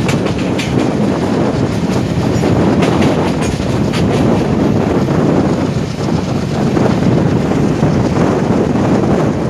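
Passenger train running along the track: a steady loud rumble, with wheels clacking over rail joints a few times in the first four seconds.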